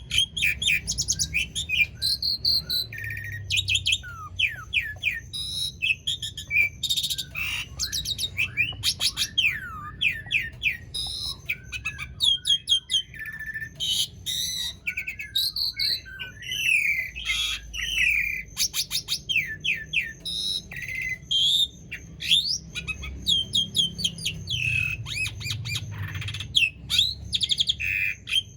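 Asian pied starling (jalak suren) singing a long, unbroken song of varied clear whistles, quick rising and falling notes, rapid chattering trills and harsh notes.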